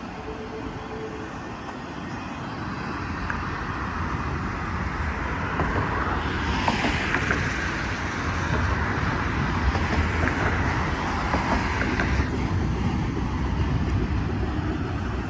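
Freight train's intermodal well cars, mostly empty, rolling past on the rails: a steady rumble with scattered rattling clicks, growing louder over the first half and then holding.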